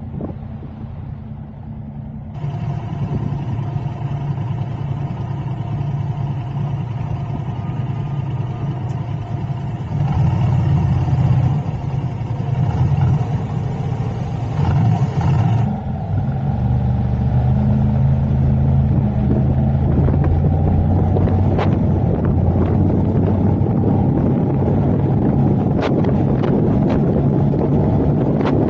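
Car driving in city traffic: steady engine and road noise, with the engine note shifting a few times as the car changes speed. Wind buffets the microphone near the end.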